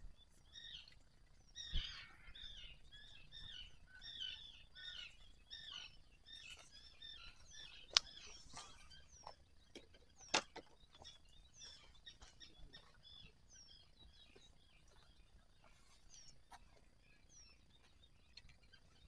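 Songbirds chirping with many short, quick notes, busier in the first half. A few sharp clicks stand out, one near the start and two louder ones about eight and ten seconds in.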